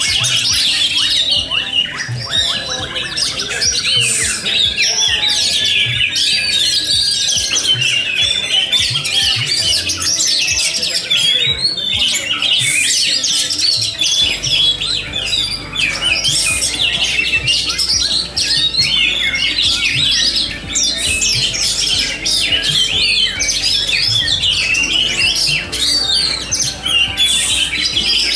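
Many oriental magpie-robins (kacer) singing at once, as on a songbird contest ground: dense, overlapping high song phrases and harsh chattering calls with no pause. A faint low steady hum comes in about halfway.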